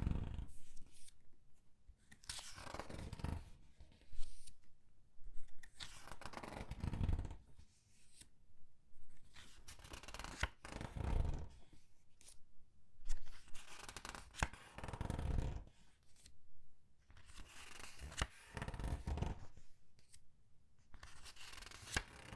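Pages of thin comic book paper being turned slowly and squeezed by hand: a crinkling rustle swells about every two seconds, with an occasional sharp crackle.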